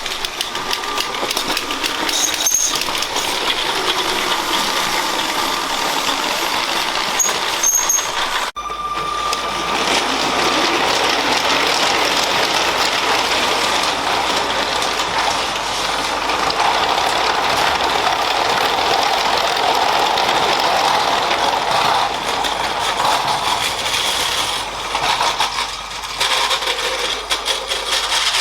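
Motorised LEGO train running on plastic track: a steady whir and rattle of the small motor and wheels, with many fine clicks. About eight and a half seconds in the sound cuts abruptly and carries on with a slightly different character.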